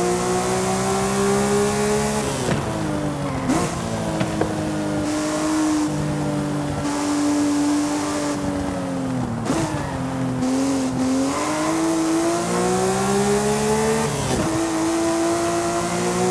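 Porsche Speedster's flat-six engine pulling under acceleration, its pitch climbing slowly and then dropping sharply at each of several gear changes, with wind and road noise.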